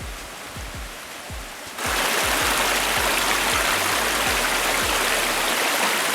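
Background music with a deep kick drum and bass notes. About two seconds in, loud rushing water from a mountain stream cuts in suddenly and becomes the main sound.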